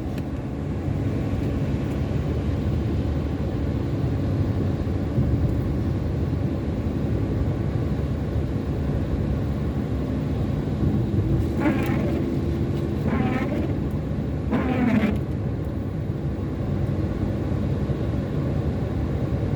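Steady engine and road rumble of a moving car, heard from inside the cabin. Three brief higher sounds come about two-thirds of the way through.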